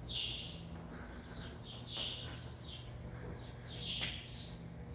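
Small birds chirping, short high calls coming every half second to a second or so in an irregular series.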